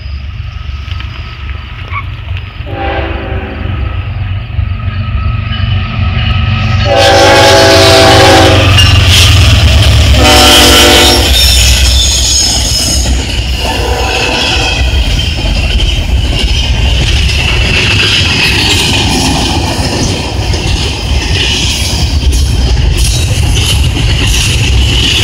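Diesel freight locomotives rumbling as an intermodal train approaches a grade crossing, the lead unit sounding its air horn in several blasts, the first about four seconds long and the third short. From about twelve seconds in the train rolls past with a steady rush of wheel and rail noise over the engine rumble.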